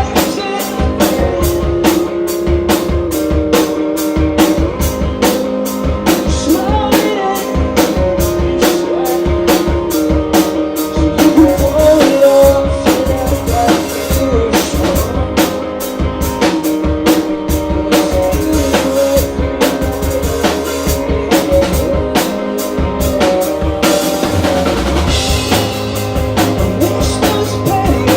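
Live rock band playing loud: a drum kit keeping a fast steady beat under distorted guitars and bass, with the arrangement shifting near the end.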